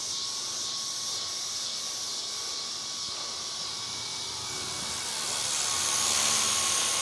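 Small electric RC helicopter in flight, its motor and rotors making a steady high whine and whir that grows louder about five seconds in.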